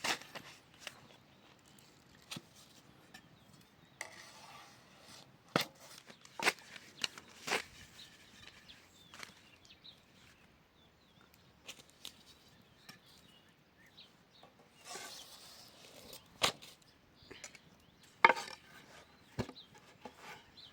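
Scattered, irregular sharp knocks and clicks, a dozen or so spread unevenly, with quiet between them and a brief rustle about fifteen seconds in.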